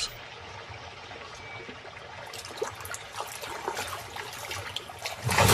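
Water trickling and lapping, with small splashes from about two seconds in and a sudden louder rush of splashing near the end.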